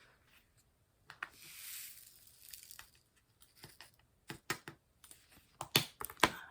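Diamond painting being worked by hand: a crinkling rustle of plastic film or the canvas cover for about a second and a half, then a run of sharp clicks and taps as the tools and canvas are handled.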